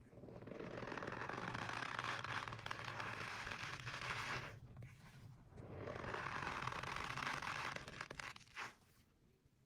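Two long rasping scrapes, the first about four seconds and the second about three, then a brief one near the end.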